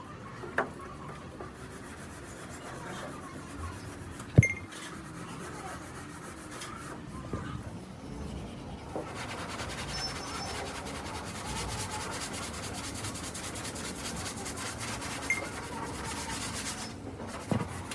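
Steady abrasive rubbing, as in sanding bodywork by hand or machine. It grows denser and brighter about nine seconds in, with one sharp knock about four seconds in and a few lighter clicks.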